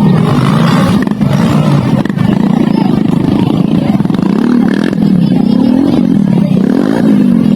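Dirt bike engine revving, its pitch rising and falling over and over as the throttle is worked.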